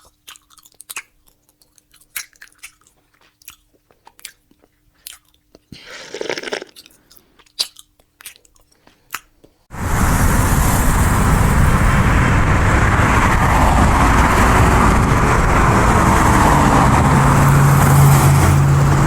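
Crunchy chewing and biting, a string of sharp irregular snaps and clicks. About halfway through, a loud steady rushing noise with a low hum abruptly takes over.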